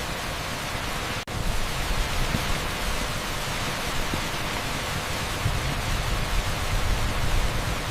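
Torrential rain on an asphalt street, heard as a dense, steady hiss like pink noise. It cuts out for an instant about a second in.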